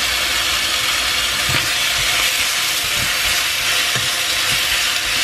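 Chicken pieces with onion and garlic sizzling in a hot frying pan, with a spatula scraping and knocking against the pan now and then as they are turned. The pan is hot enough that the chicken is starting to scorch.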